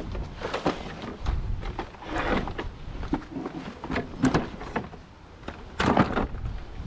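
Scrap metal being handled and set down: a series of irregular knocks and rattles, with the loudest knock about six seconds in.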